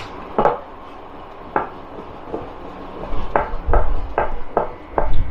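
A knife chopping on a cutting board, likely cutting dumpling dough into pieces. A few spaced strokes come first, then a quicker run of about three a second in the second half. Low gusts of wind rumble on the microphone.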